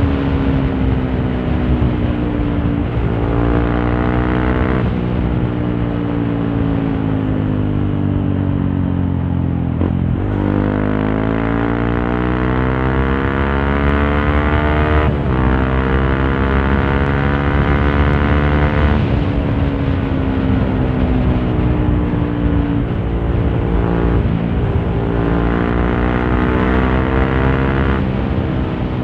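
Honda CRF150L's single-cylinder four-stroke engine running through a Norifumi Torc aftermarket exhaust while ridden: the engine note falls as the bike slows, dips lowest about ten seconds in, then climbs again, changing pitch in steps several times. Heard from a microphone inside the rider's helmet, with a low wind rumble underneath.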